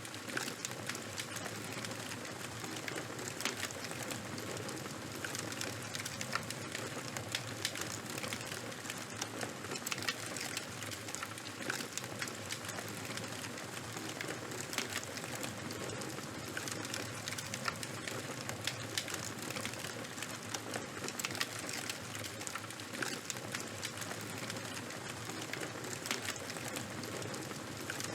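Open fire crackling: a steady hiss with frequent sharp pops and snaps scattered throughout.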